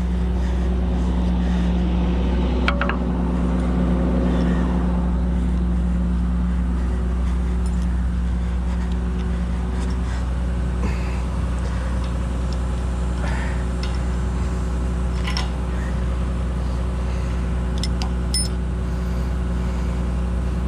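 Kobelco SK250 LC excavator's diesel engine idling steadily, with a few sharp metal clinks as the thumb's mounting bolt is handled and fitted.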